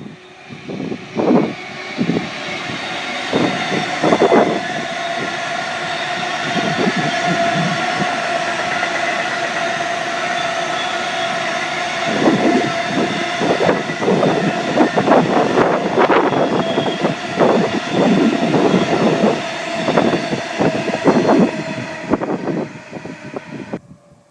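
Long freight train hauled by a Class 66 diesel locomotive passing close by, its wagon wheels clacking over the rail joints with a steady high tone throughout. The sound lasts over twenty seconds and cuts off abruptly near the end.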